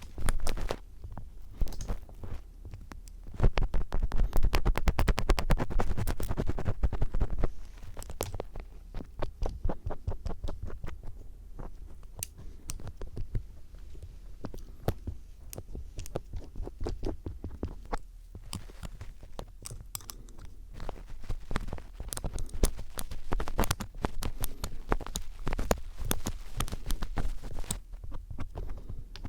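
Phillips screwdriver scraping and tapping against an ear microphone, ASMR-style mock ear-cleaning: close, crackly scratching strokes. A louder run of fast scratching comes a few seconds in, then slower, scattered scrapes and clicks.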